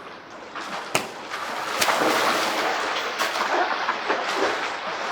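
Two sharp smacks about a second apart, then a steady noisy wash of water splashing as people play a ball game in a swimming pool.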